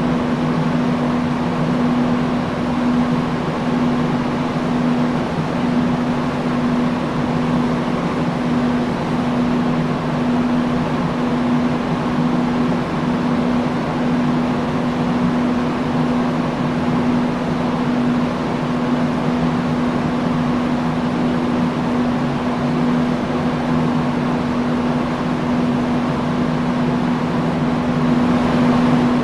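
Industrial fan running steadily: a constant whoosh of moving air with a steady motor hum.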